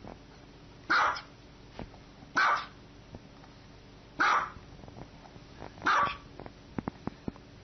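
Small dog barking: four single high-pitched barks about one and a half to two seconds apart, with a few light clicks near the end.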